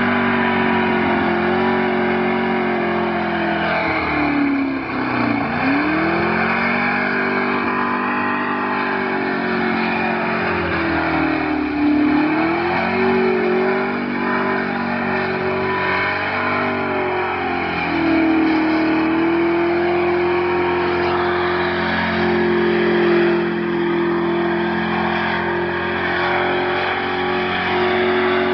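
Car engine held at high revs during a burnout, mixed with a dense tyre-squealing haze. The revs drop sharply and climb back twice, about five and twelve seconds in, then hold steady at the top.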